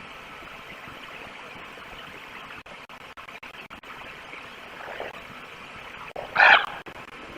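A wolf gives a short, loud call about six and a half seconds in, with a fainter one just before. The calls sit over the steady hiss of the outdoor cam microphone.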